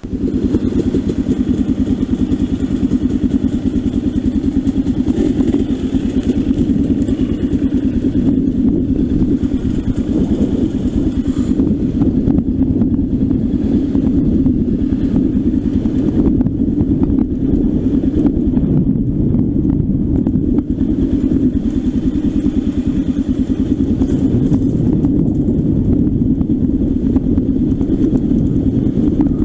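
Trail motorcycle's engine running steadily as the bike rides along.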